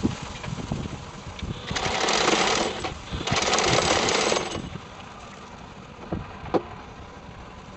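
Car engine and exhaust with a steady low rumble, broken twice by loud bursts of rapid rattling, each about a second long.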